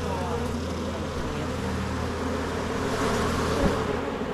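Honeybees buzzing steadily around an open hive, with a single short knock near the end.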